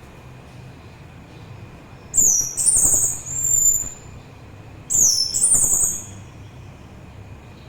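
Orange-headed thrush singing: two high-pitched phrases of quick, slurred whistles. The first comes about two seconds in and runs nearly two seconds; the second, shorter, comes about five seconds in.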